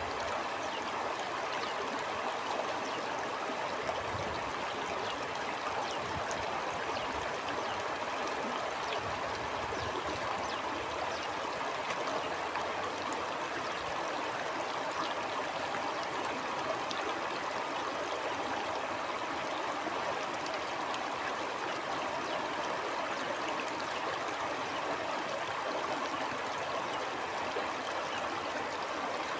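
River or stream flowing steadily, a continuous rush of water with small gurgles and splashes.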